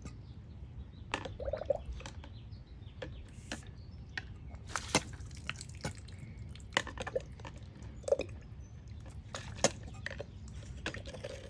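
Water splashing and dripping in a small homemade pipe toilet, with scattered sharp clicks and knocks from it being handled.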